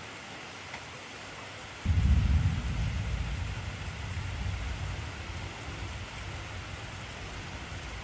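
Steady heavy rain, with a sudden low rumble of thunder about two seconds in that slowly dies away over the next few seconds.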